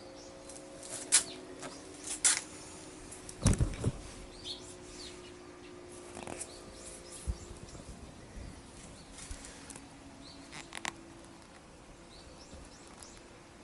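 Scattered clicks, knocks and light metallic clinks of hand tools and parts being handled during disassembly of a motorcycle front brake, with a faint ringing tone under the first few seconds.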